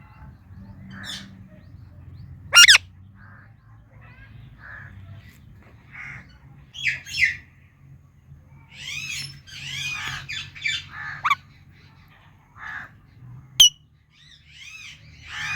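Indian ringneck parakeet calling: scattered rapid chirps and trills, with two short, piercing screeches about two and a half seconds in and near the end, which are the loudest sounds. A faint steady low hum lies underneath.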